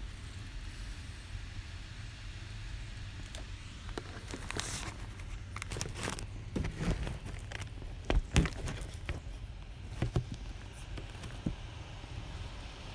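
Scattered clicks and knocks of tools and materials being handled, over a steady low rumble; the loudest knocks come about eight seconds in.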